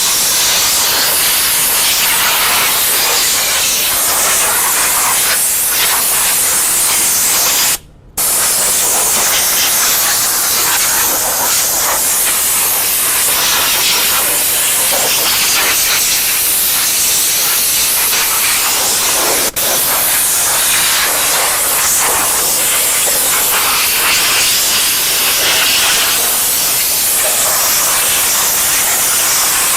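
A pressurised spray gun hissing steadily as it blasts over the engine bay, clearing off water and degreaser. The hiss stops for about half a second around eight seconds in, when the trigger is let go, and dips once more briefly later.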